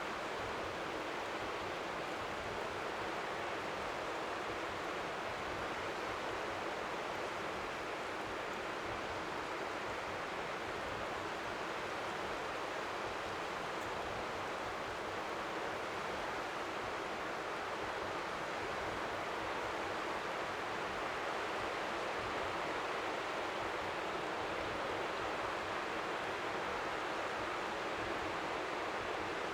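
Strong wind by the sea giving a steady, even rushing noise like white noise, with faint waves lapping on the shore beneath it.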